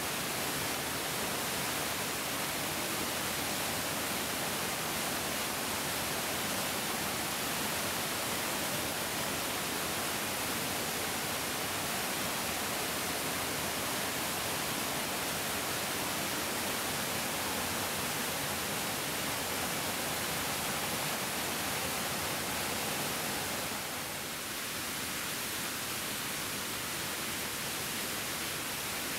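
A bigger mountain stream flowing: a steady, even rush of water, dipping slightly in level near the end.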